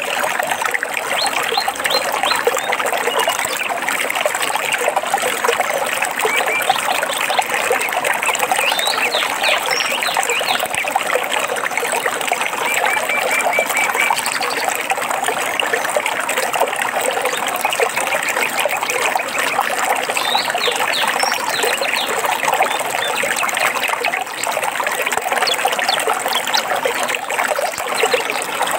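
Water trickling and babbling steadily over stones, as in a small stream, with birds chirping and trilling now and then above it.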